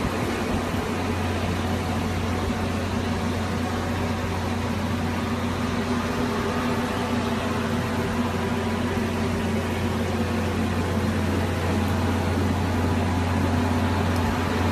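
Steady low machine hum with a few faint steady tones over a hiss, unchanging throughout.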